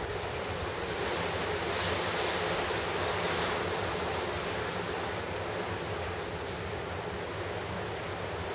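Pacific surf breaking on the shore, a continuous rushing wash that swells louder a couple of seconds in and then eases, with some wind on the microphone.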